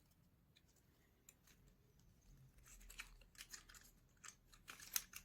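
Faint, sharp small clicks and scrapes of thin basswood model parts being handled and pressed into place, coming in a quick irregular cluster from about three seconds in.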